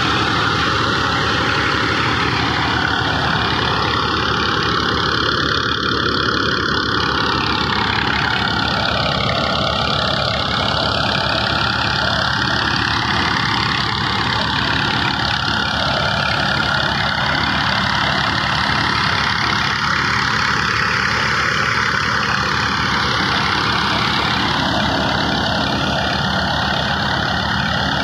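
Tractor engine and the thresher it drives, running steadily together as one loud, unbroken mechanical noise.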